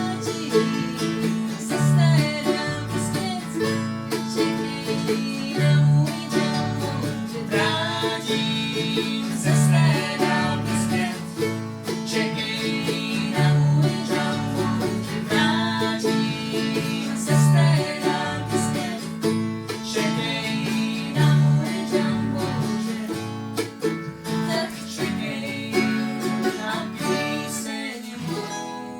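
Country-style music played on plucked string instruments, with a steady repeating bass line.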